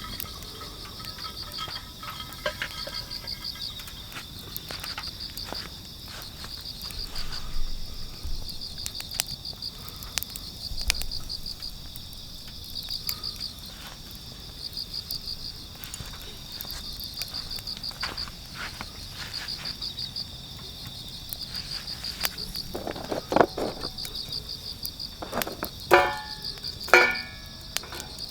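Crickets chirping in repeated high, pulsing trills about a second long, with scattered light clicks and knocks of gear being handled and a few louder metallic clinks near the end.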